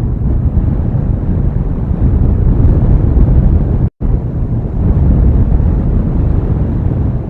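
Storm wind buffeting an outdoor nest-cam microphone, a loud, steady low rumble. The sound cuts out for an instant about four seconds in.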